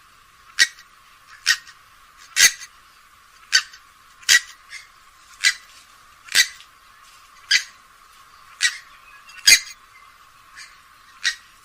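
Grey-headed swamphen giving a run of short, sharp calls, about one a second.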